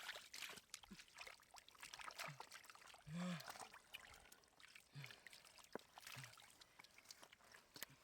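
Faint water splashing and trickling with many small scattered clicks, and a short low pitched call about three seconds in.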